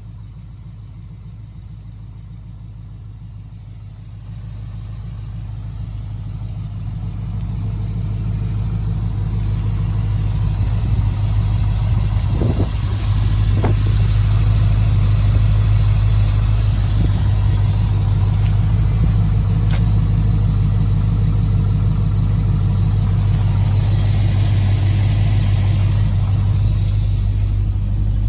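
A 6.0-litre L98 V8 engine running at a steady speed. It grows louder over roughly the first ten seconds, then holds level.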